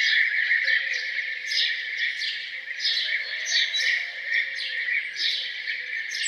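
A chorus of songbirds singing together: a dense, steady wash of song with short falling chirps repeating about twice a second above it.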